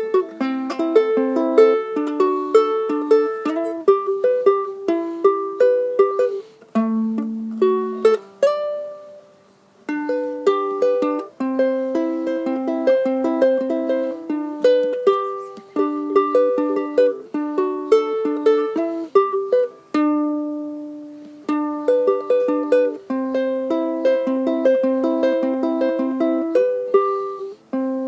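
Instrumental break played on a single small plucked string instrument, picking rapid chord notes in the middle and upper register with no bass. The playing thins out briefly about a third of the way in and again after about twenty seconds.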